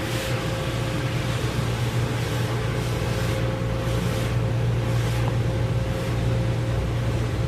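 Automatic car wash equipment running around the car, heard from inside the cabin: a steady low machine drone with a thin steady tone over it and a rushing hiss of spray or air.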